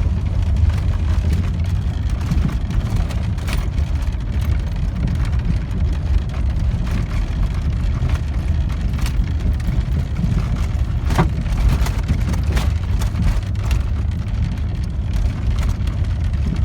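Vintage GMC Vandura van driving on a rough dirt track: a steady heavy rumble with scattered rattles and a few sharp knocks, about a third of the way in and twice more past the middle.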